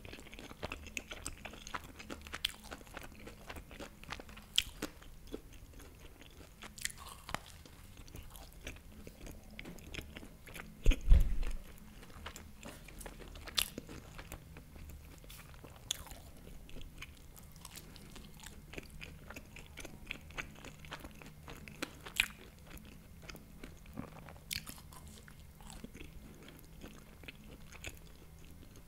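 Close-miked biting and chewing of empanadas, with the pastry crust crunching and many small sharp clicks. A heavy low thump comes about eleven seconds in.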